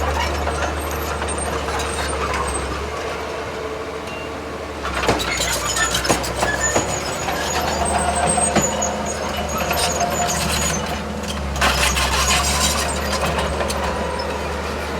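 Diesel engines of heavy earthmoving machinery running steadily. About five seconds in and again near the end there are stretches of louder clattering and rattling.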